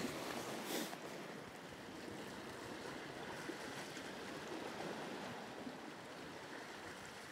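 Sea waves washing steadily along the shore, with a short louder swish just under a second in.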